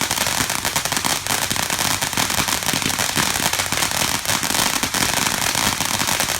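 Consumer fireworks going off in a dense, continuous crackle of rapid small bangs.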